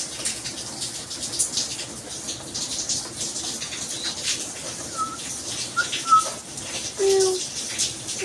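Steady rain with water dripping and splashing. Near the end, short, low, even-pitched cooing calls start, with a few brief higher chirps just before them.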